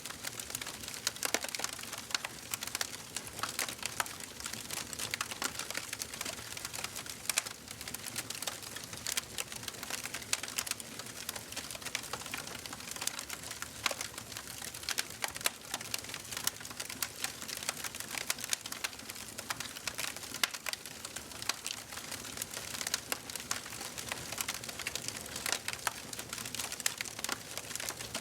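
Wood fire burning in a fireplace: a continuous stream of small, irregular crackles and snaps over a soft steady hiss, with a few louder pops now and then.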